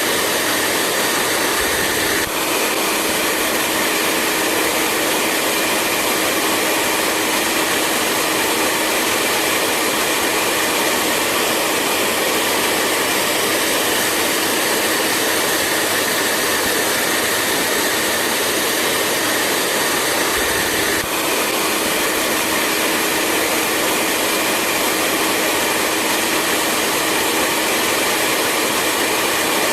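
Hair dryer running steadily: an even rushing blow of air with a faint steady hum beneath it, with a slight break about two seconds in and again about twenty-one seconds in.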